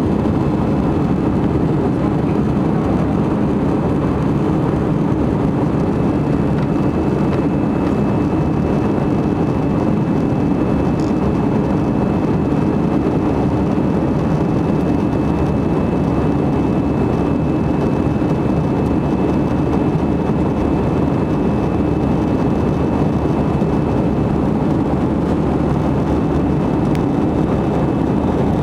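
Steady noise of an airliner's jet engines and airflow heard from the passenger cabin during the climb after takeoff, with a faint steady high tone through the middle.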